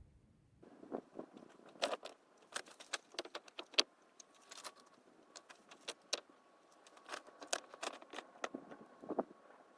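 Irregular sharp clicks and light clinks, as of small hard objects knocking together, with a faint steady high tone through the second half.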